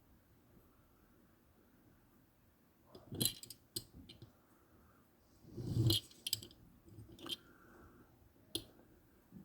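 Die-cast toy trucks being handled: a scatter of light clicks and clacks as they are picked up and set down, with a heavier knock about six seconds in.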